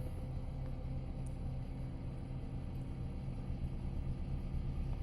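Toyota Camry XV30 engine idling steadily with the parking brake set, a low even hum with no warning chime sounding.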